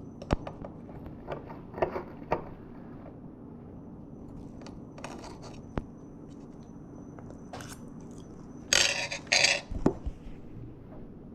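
Cutlery clicking and scraping on a plate, then crunchy bites and chewing of beer-battered fried fish, loudest in a pair of bursts near the end.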